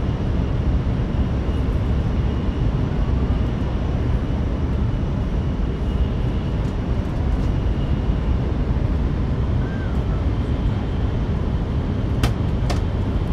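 Cabin running noise of an N700S Shinkansen train at speed: a steady low rumble with a faint high whine, and two sharp clicks about half a second apart near the end.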